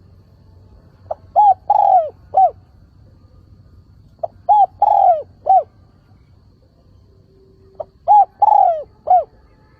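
Spotted dove singing its cooing song three times, about every three seconds. Each phrase is a short coo, a longer falling coo and a short closing coo.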